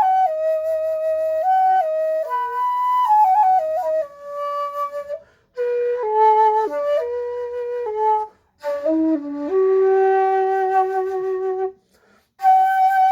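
Six-hole Tang-style shakuhachi played solo: a slow melody of long held notes with small pitch ornaments, breathy in tone, in phrases separated by three short breaks.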